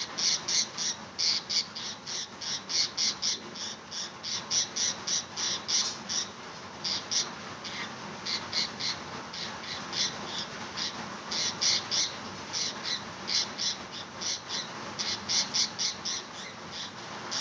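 Pet parrot squawking in quick runs of short, harsh, high calls, several a second, with brief pauses between runs. The calls are those of an agitated bird.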